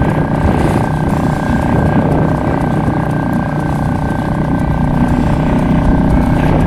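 Boat motor running at a steady speed as the boat travels, with wind buffeting the microphone.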